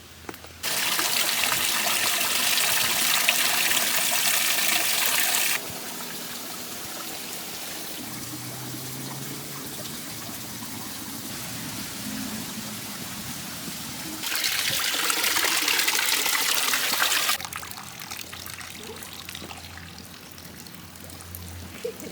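Running, trickling water such as a stream, in clips that cut in and out abruptly. The water is loudest in two stretches, the first after about half a second and the second after about fourteen seconds, and quieter in between and near the end.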